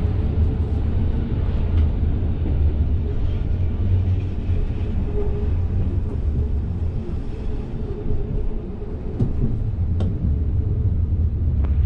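Passenger train running, heard from inside the carriage: a steady low rumble of wheels on the track with a faint hum and a few light clicks, the sharpest about ten seconds in.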